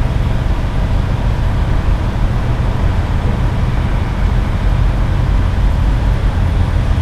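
Steady low rumble of idling truck engines and road traffic, a constant deep hum with no breaks.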